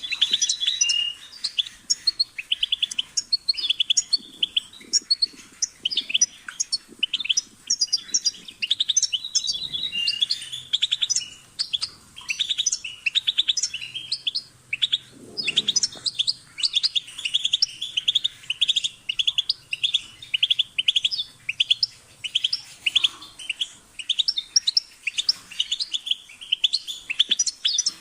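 European goldfinch singing: a long, unbroken run of rapid high twittering notes and quick trills.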